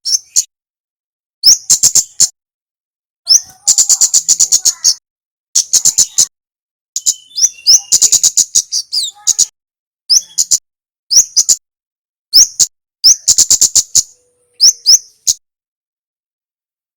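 Recorded song of a kemade songbird: about ten bursts of rapid, sharp, high-pitched chips and quick upward-flicking notes, some short and some running for two seconds, with brief pauses between them. The calling stops a second and a half before the end.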